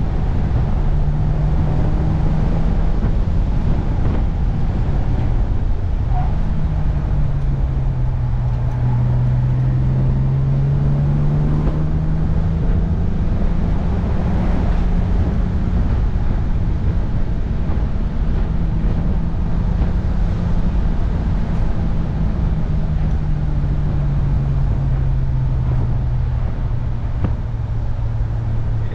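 1966 Jaguar E-Type Series I's 4.2-litre straight-six engine running under load at road speed, with a steady rumble of wind and road noise in the open cockpit. The engine note drops about six seconds in, climbs slowly to its highest point about halfway through, then eases back down.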